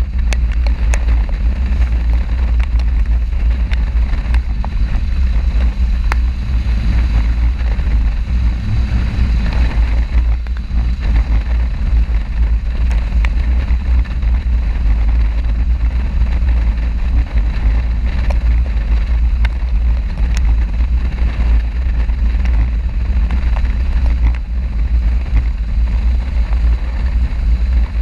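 Steady wind rushing over an action camera's microphone on a moving motorcycle, a loud, unbroken low rumble, with the motorcycle's engine running beneath it.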